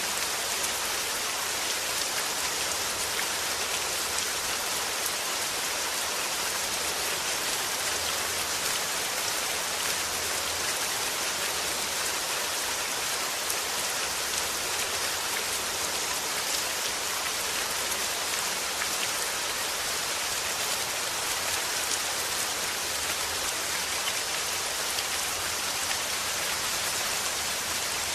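Steady falling rain: an even hiss of drops hitting a surface, with fine scattered patter and no change in strength.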